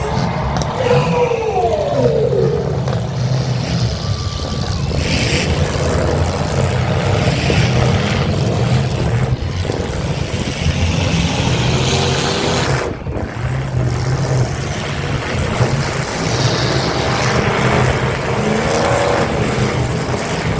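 Several demolition derby cars' engines running and revving together, loud and continuous, rising and falling in pitch.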